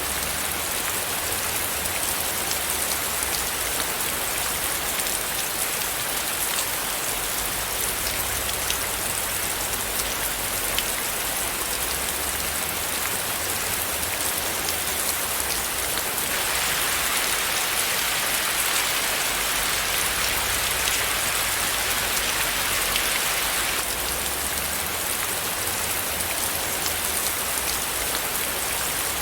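Steady rain falling: an even hiss of many small drops ticking on a surface, growing a little fuller for several seconds past the middle.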